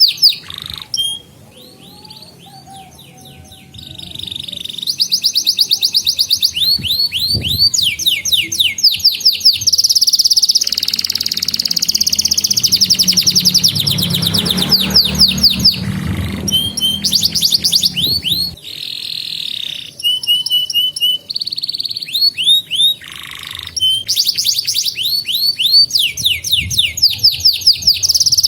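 Domestic canary singing a loud, fast song of rolling trills, each made of rapidly repeated sweeping notes, switching from one trill to the next with brief pauses, softer for a few seconds near the start.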